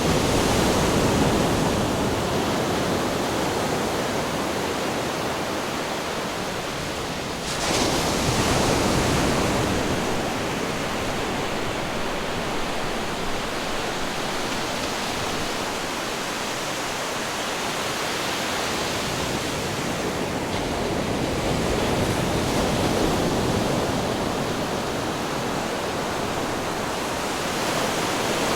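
Ocean waves crashing on rocks: a continuous rushing surf that swells and ebbs, with one wave breaking suddenly and loudly about seven and a half seconds in.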